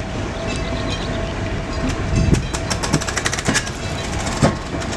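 A train rolling on its tracks with a steady rumble, and a quick run of wheel clicks and rattles about midway.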